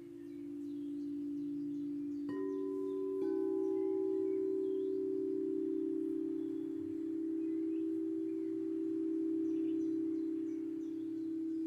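Singing bowls ringing with a steady, sustained hum of a few close low tones; a bowl is struck twice, a little over two and three seconds in, each strike adding a new ringing tone that slowly fades into the hum. Faint bird chirps sound in the background.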